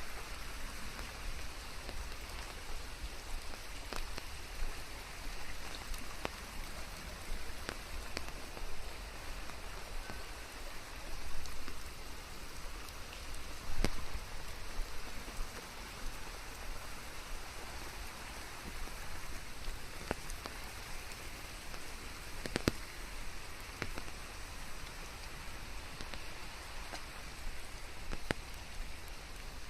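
Steady rain falling, an even hiss with scattered sharper drop hits and a low rumble underneath. A couple of louder surges come near the middle.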